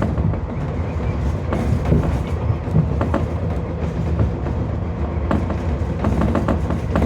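Tobu 30000 series electric commuter train running at speed: a steady low rumble with wheels clicking over rail joints, several clicks in quick succession near the end.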